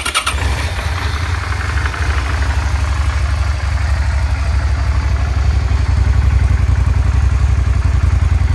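2008 Suzuki SV650S's 90-degree V-twin engine, heard through its stock exhaust, catching right at the start and then idling steadily with an even, low pulsing rumble.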